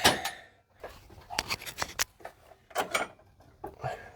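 Light metal clicks, knocks and scraping as a cylinder head is maneuvered down onto the engine block and head gasket. There is a louder knock at the start, then a scattered run of sharp clicks.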